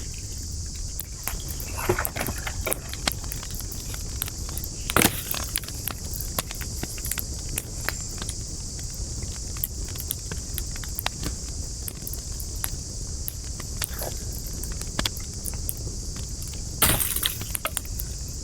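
Campfire wood burning and crackling, with a steady run of small snaps and two louder pops, one about five seconds in and one near the end, over a low steady rumble.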